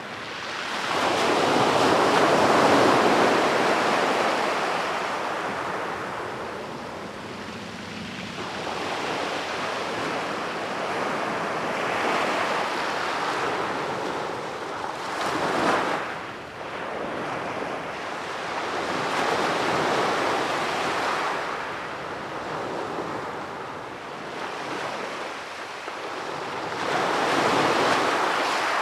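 Sea waves breaking on a sandy beach and washing back, in slow surges every few seconds, one sharper crash about halfway through.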